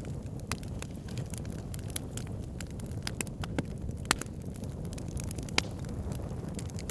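Wood fire burning in a fireplace: a steady low rumble of flames with irregular sharp crackles and pops, a few louder pops standing out about four and five and a half seconds in.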